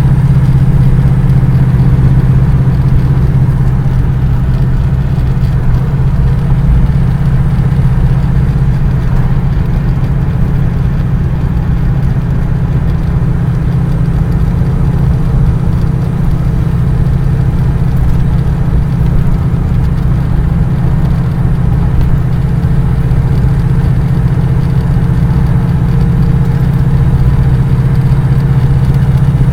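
A vehicle's engine running with a steady low drone that holds evenly throughout.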